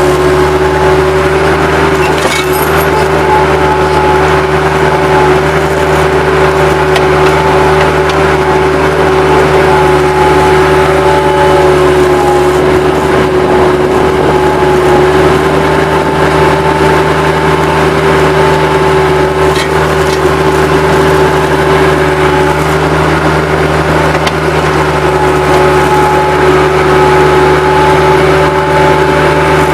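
Bobcat 763 skid steer's diesel engine running steadily at high throttle, with a steady whine over a low rumble.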